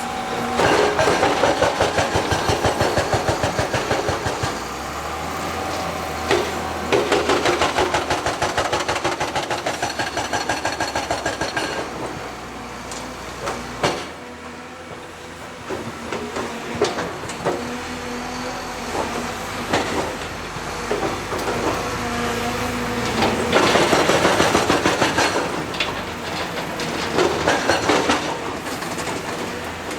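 Heavy construction machinery at work: a diesel engine running steadily, with several bouts of fast, evenly repeated metallic clanking that stop and start.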